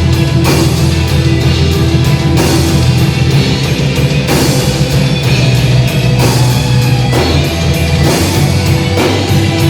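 Rock band playing an instrumental break live: electric guitar over bass and drum kit, with a cymbal crash about every two seconds.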